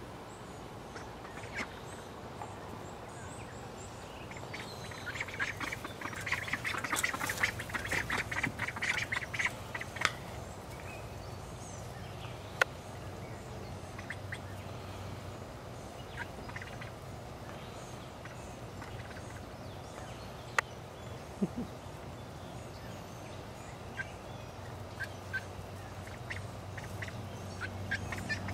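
Domestic ducks quacking, with a quick, dense run of calls from about five to ten seconds in and only scattered calls after that.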